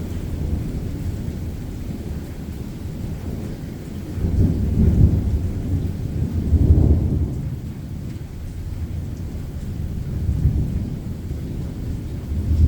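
Rolling thunder rumbling continuously, swelling to two loud peaks a few seconds in and rising again near the end, with rain falling underneath.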